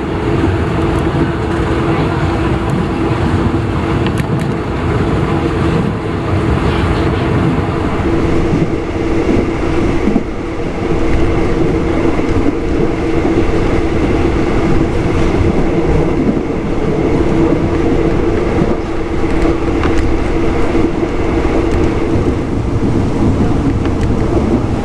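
Passenger train coach running along the track: a steady rumble of wheels on rails with a continuous hum.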